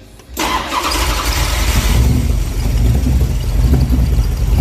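Freshly built 283 small-block Chevrolet V8 racing engine firing on its first start about half a second in, then running loud and steady. It is brightest for its first second or so before settling into an even idle.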